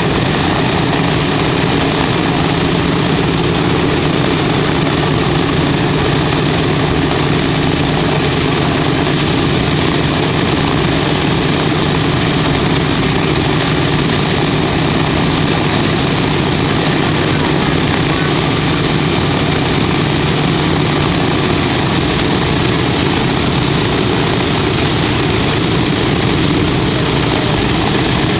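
The B-17's Wright Cyclone nine-cylinder radial engines running steadily, with a loud, even drone of propellers and exhaust.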